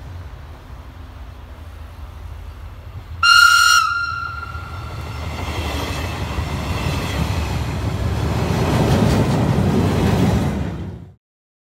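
An SBB regional passenger train sounds one short horn blast about three seconds in, then rumbles past close by, its wheel and running noise growing louder as it passes. The sound cuts off suddenly near the end.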